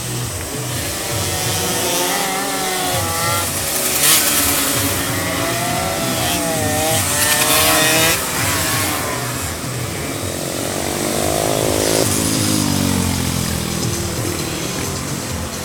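Car engines revving, their pitch rising and falling repeatedly; around eleven seconds in, an engine climbs in pitch and then falls away.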